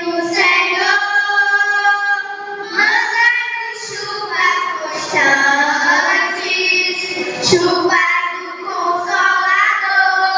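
A group of children singing a Portuguese hymn in unison, with long held notes.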